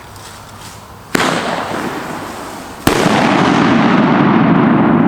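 A 1-inch aerial salute fired from a mortar: the lift charge goes off with a sharp thump about a second in, and the salute bursts with a loud crack nearly two seconds later. A long rumbling echo follows the burst.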